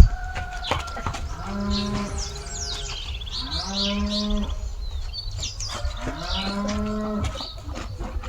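Cattle mooing three times, each call about a second long, with birds chirping in between and a sharp knock right at the start.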